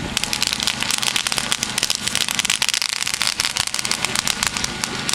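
Firework fountain burning, with a dense, continuous crackle of many small pops over a steady hiss from its dancing-fish effects.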